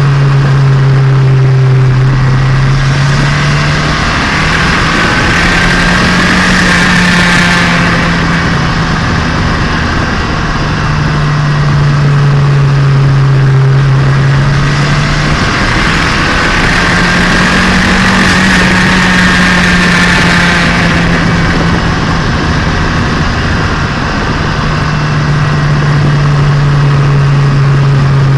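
Turbocharged Nissan Micra engine and exhaust running under way, the engine note stepping up in pitch and settling back down twice, with a louder hiss riding over it each time it rises.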